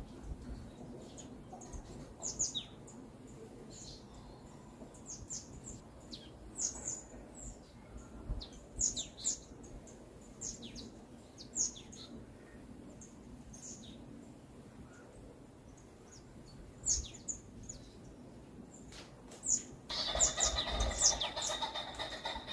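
Songbirds chirping in a forest: short, high, downward-sliding chirps every second or so. Near the end, a louder, fuller sound with several pitches sets in.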